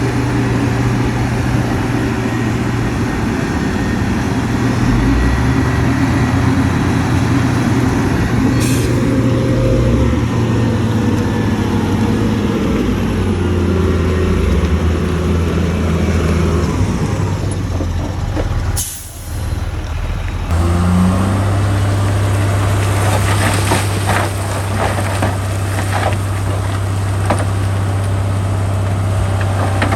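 Heavy diesel engines of earthmoving machinery (dump truck and bulldozer) running under load, the engine note rising and falling. A short hiss comes about two-thirds through, after which the engine sound changes abruptly.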